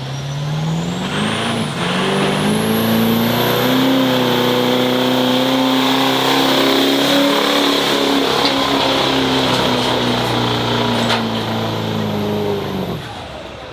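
Diesel pickup truck pulling a sled at full throttle: engine revs climb over the first few seconds and hold high with a high whine above them, then fall away sharply about thirteen seconds in as the pull ends.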